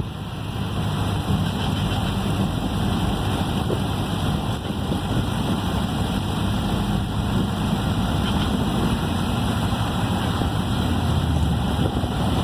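Ford Model A's four-cylinder engine running with road noise, heard from inside the car while it is driven; a steady drone.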